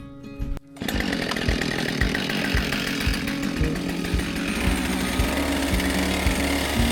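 Husqvarna 572 chainsaw's two-stroke engine starting up about a second in and running steadily at part throttle. The saw is new and still being broken in, so it is kept off wide-open throttle while the piston rings seat.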